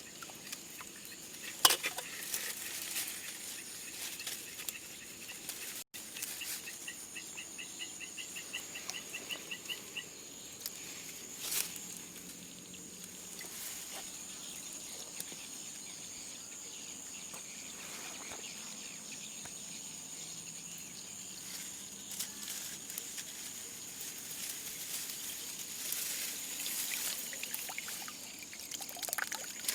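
Steady high-pitched insect chorus, with a run of rapid chirps from another calling creature for a few seconds and a few sharp clicks or splashes, one near the start the loudest.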